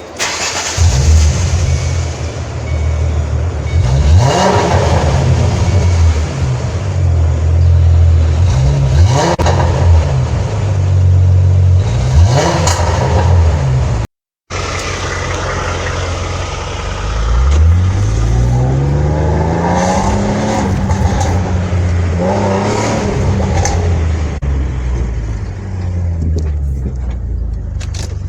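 Ford Mustang 4.0 V6 engine with an aftermarket exhaust, revved several times with quick rises and falls in pitch. After a sudden cut, a second 4.0 V6 Mustang runs with longer rising sweeps in pitch, like pulls under acceleration.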